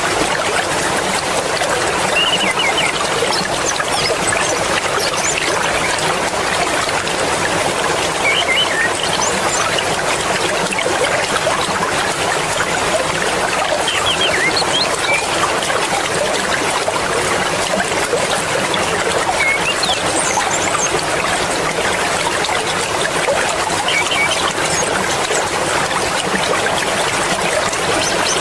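Fast-flowing mountain river rushing steadily: a dense, even splashing with little low rumble, with brief high chirps now and then.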